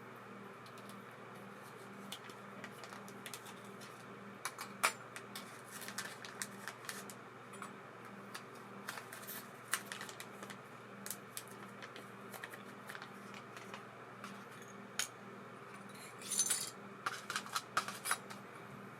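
Small metal parts and tools clicking and clinking irregularly as an ABU Ambassadeur 2500C baitcasting reel is worked on by hand, over a steady low hum. There is a short hiss about 16 seconds in, and a quick run of clicks near the end.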